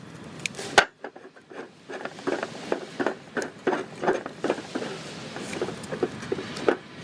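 A sharp click about a second in, then a run of irregular light knocks and taps of hard objects being handled, several a second.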